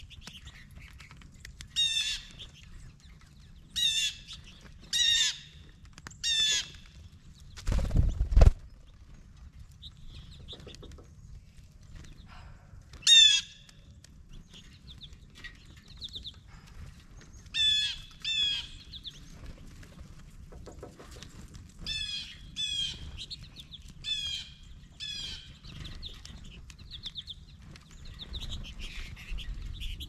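Wild birds calling with short, harsh calls, repeated about a dozen times with gaps of one to two seconds, some in quick pairs, and fainter calls in between. About eight seconds in there is a loud, low thump, the loudest sound.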